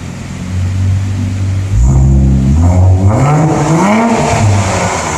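Infiniti Q50's twin-turbo V6 exhaust, fitted with resonated lower downpipes, idling and then revved from about two seconds in, the pitch climbing to a peak and falling back toward idle near the end.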